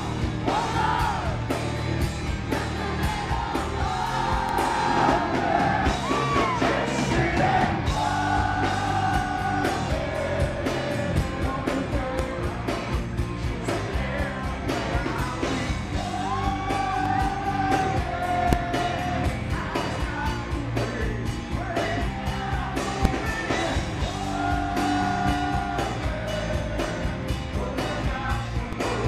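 Hard rock band playing live with a male lead vocalist singing long held notes over guitars and drums, in a low-quality audience recording.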